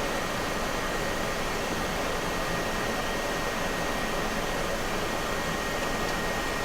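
Steady rushing flight-deck noise of a Boeing 737 Classic on final approach with gear down and flaps 30: airflow and air-conditioning hiss, with a faint steady high tone.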